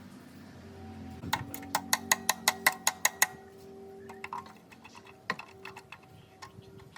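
A quick run of about ten sharp metallic taps, around five a second, followed by a few scattered knocks.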